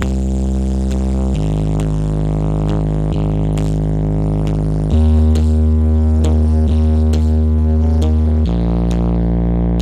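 Loud dance music from a large carnival 'horeg' sound system (Blizzard Audio). It is dominated by long droning bass notes that shift pitch every few seconds, with light ticking percussion on top.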